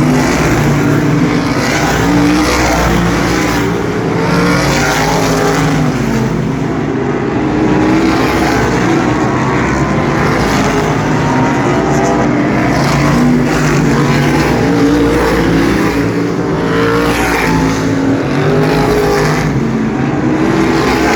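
A field of asphalt sprint car engines racing around a short oval. Several engines run at once, their pitch rising and falling again and again as the cars go through the turns and pass.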